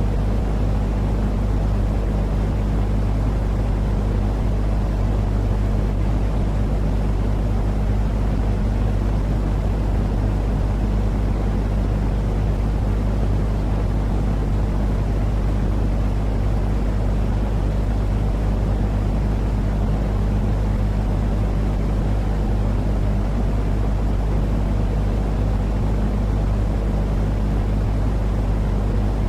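Steady, unchanging low rumbling noise of the kind played to soothe babies, with a steady low hum running beneath it.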